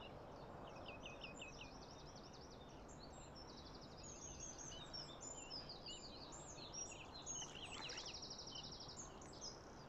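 Several small birds singing and calling, with quick high chirps and whistles and a couple of fast rattling trills, over a faint steady background hiss.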